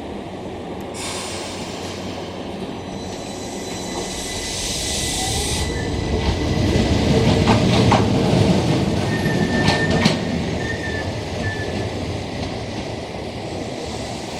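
Keihan Keishin Line electric train passing, its running noise building to a peak about halfway through and then fading, with high wheel squeals from the rails as it goes by.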